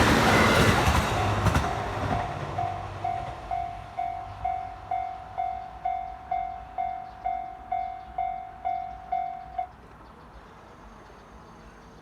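JR Hokkaido H100 series diesel railcar running past and fading away over the first couple of seconds. A level-crossing warning bell then dings steadily, about twice a second, and stops abruptly near the end.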